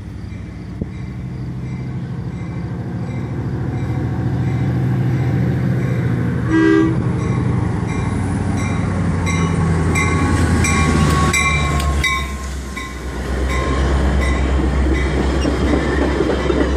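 Metra MP36 diesel locomotive and its train arriving at the station, the engine's low rumble building as it comes closer. There is a short horn blast about halfway through and a bell ringing at an even pace. Near the end come wheel clatter and rumble as the cars roll in.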